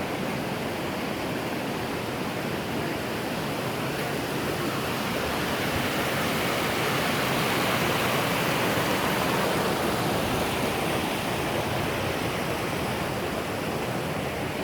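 Clear spring-fed river water rushing steadily, swelling a little louder midway and easing again near the end.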